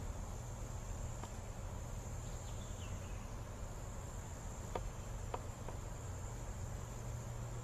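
Insects chirring in a steady high-pitched drone, with a brief bird chirp and a few faint ticks.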